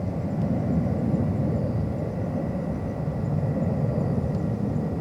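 Steady low rumble of jet airliner engines heard across the airfield.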